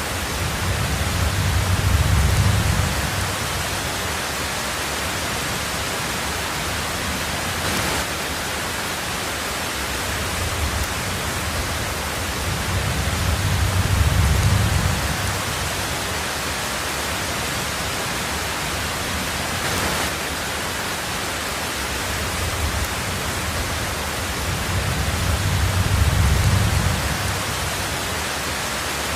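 Heavy rain on a tin roof, a steady hiss, with three low rolls of thunder about twelve seconds apart: one about two seconds in, one in the middle, and one near the end.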